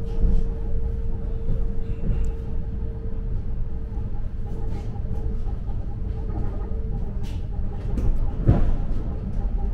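Steady low rumble of a commuter train running, with a steady hum that fades out about seven seconds in and a thump near the end.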